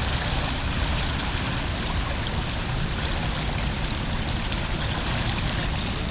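Steady rushing noise of flash-flood water running over a submerged road, with a low rumble underneath.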